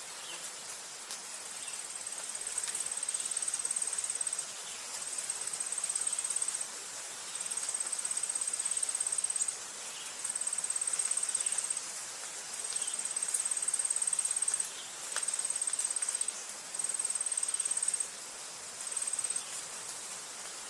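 An insect trilling high-pitched in about eight bouts of one to three seconds each, with short pauses between them, over a steady background hiss.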